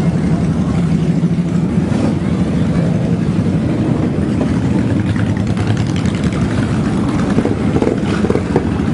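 Motorcycle engines running loudly, with a crackling exhaust note growing stronger about halfway through.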